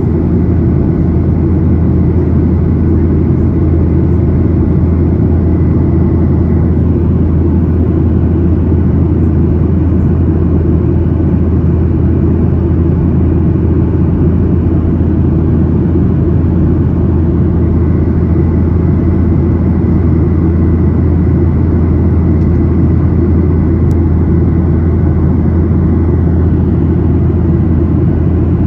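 Steady cabin noise of a Boeing 737-800 in flight: the low drone of its CFM56-7B turbofan engines and rushing air, unchanging throughout, with a faint thin whine on top.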